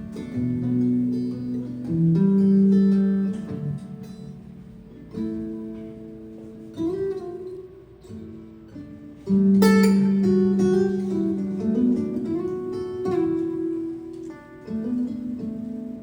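Acoustic guitar strumming slow chords and letting them ring, with strong strokes about two seconds in and again near ten seconds.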